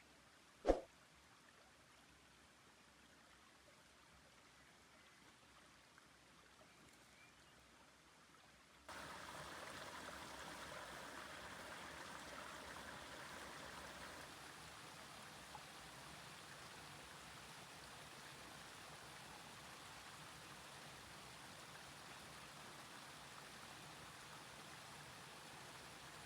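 A single sharp knock about a second in. Then, about nine seconds in, a steady sound of running water starts abruptly and goes on evenly.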